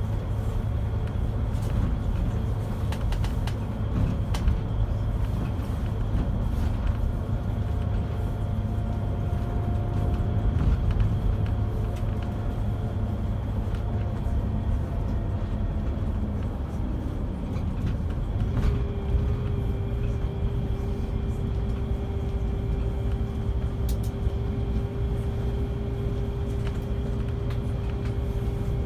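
Scania K360 coach's five-cylinder diesel engine and drivetrain running under way, heard from inside the coach: a steady low drone, joined about two-thirds of the way through by a steady whine.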